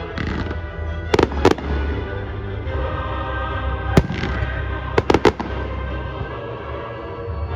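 Fireworks shells bursting with sharp bangs: two about a second in, one near four seconds, and a quick run of three just after five seconds, over steady music.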